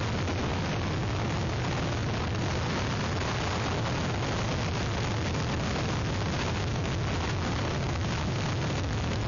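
Hurricane-force wind blasting the microphone of an outdoor webcam: a steady, unbroken rush of noise with a heavy low rumble.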